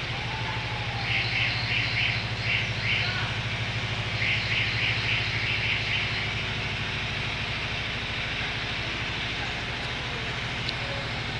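Garden ambience with a steady low hum and a bird calling in two quick series of short, high, repeated chirps, about four a second, the first starting about a second in and the second a little later.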